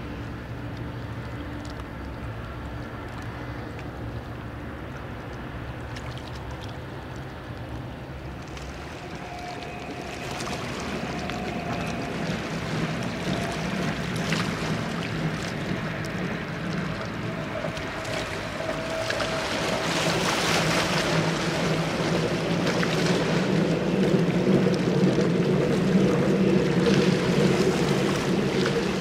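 Electric trains running along the railway across the river: a two-unit BR 428 electric multiple unit, then a freight train. A rumble builds from about a third of the way in, with a faint electric whine, and is loudest over the last third.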